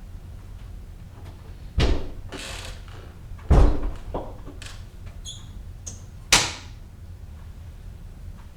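Three sharp knocks or thuds, like a door or cupboard being handled, the middle one loudest, with a short scraping sound after the first and a faint high clink between the last two.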